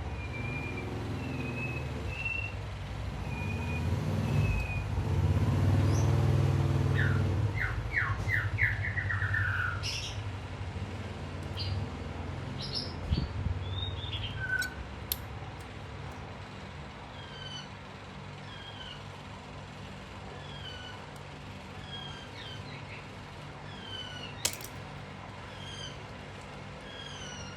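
Small birds chirping, with short falling chirps repeated about once a second in the later part, over a low rumble that swells and fades away in the first ten seconds; a couple of sharp clicks stand out.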